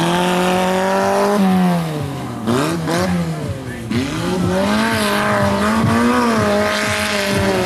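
Tuned Autobianchi A112's four-cylinder engine revving hard through a gymkhana cone course; its pitch drops about a second and a half in, stays low for a couple of seconds, then climbs again and holds high.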